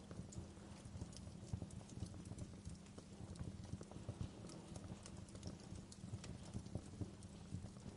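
Wood fire crackling in a fireplace: scattered sharp pops and snaps over a dense, flickering low rumble of the burning logs.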